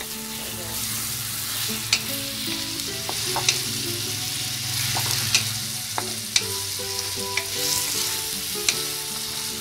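Raw chicken pieces and chopped onion frying with a steady sizzle in a black nonstick wok as they are stirred with a wooden spatula. The spatula knocks against the pan about six times.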